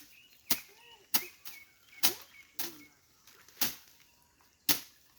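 Repeated swishing strikes of a blade slashing through vegetation, about seven hard cuts at an uneven pace.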